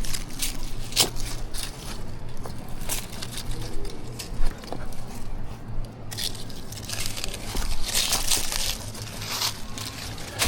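A hiker's footsteps and scrambling, crunching and crackling through dry leaves and forest debris on rocky ground. The crackles come irregularly and are thicker and louder in the second half.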